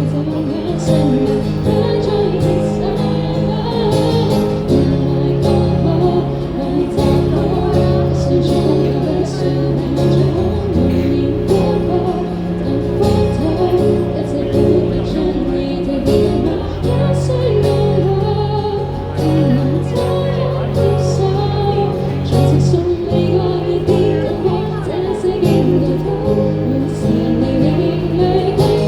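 A live band playing a song with a singer's voice over sustained bass notes.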